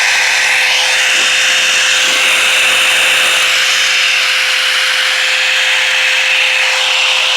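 Revlon One-Step hair dryer brush running on its highest setting: a loud, steady rush of air over a constant motor hum.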